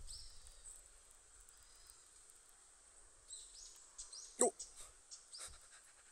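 Faint bird chirps, short high calls sweeping downward: one at the start and a quick run of them about three seconds in. A sharp click comes about four and a half seconds in, over a faint steady high tone.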